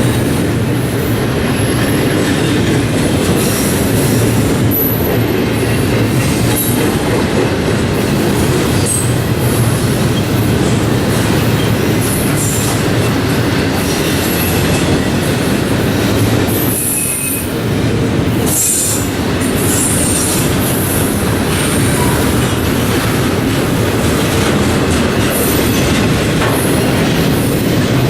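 Intermodal freight train rolling past at close range, its steel wheels rumbling steadily on the rails with brief high-pitched wheel squeals scattered throughout.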